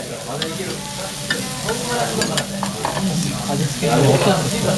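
Monjayaki cabbage and batter sizzling on a hot teppan griddle while spatulas stir and chop it, with many short clicks and scrapes of metal on the plate over a steady sizzle.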